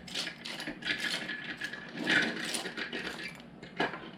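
LEGO plastic pieces clicking and rattling as they are handled and pressed into place, in an irregular run of small clicks with a louder clatter about two seconds in.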